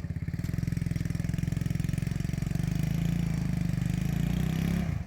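A vehicle's engine running steadily under light throttle while being driven slowly, then easing off suddenly near the end.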